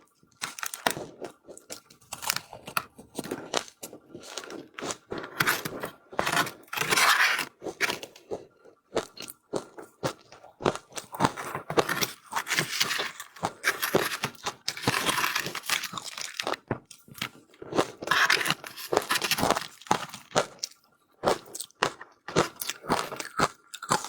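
Powdery ice being crunched and chewed close to the microphone, in irregular bites and chews with short pauses between them.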